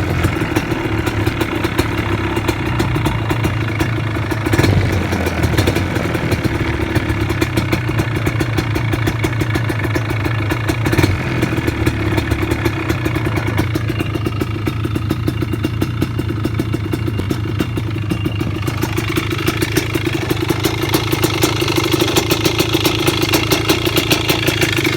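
Four-wheeler's engine running steadily at normal RPM, with a slight rise in engine speed about three quarters of the way through.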